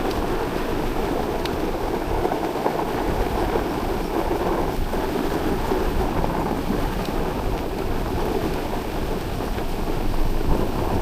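Steady rushing noise of a dog sled moving over a snow trail: runners scraping the snow, with wind on the microphone.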